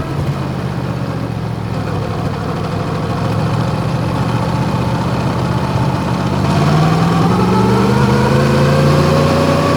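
Yamaha MT-10's crossplane inline-four with Akrapovic exhaust running steadily, then revs climbing smoothly from about two-thirds of the way through as the bike accelerates.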